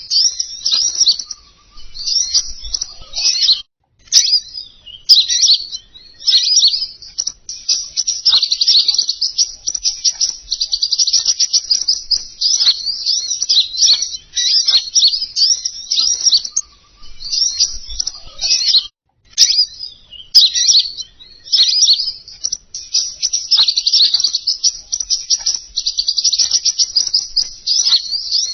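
Rapid, high-pitched twittering song of a small songbird, a lure call for the bird known in Indonesia as king konin. It runs almost without pause, with short breaks about 4 and 19 seconds in.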